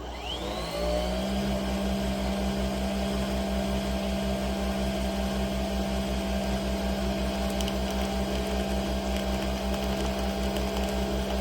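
Nespresso Vertuo Pop+ coffee machine brewing. A whine rises quickly in the first second as the capsule spins up, then settles into a steady whir over a low hum with a fast, even pulsing.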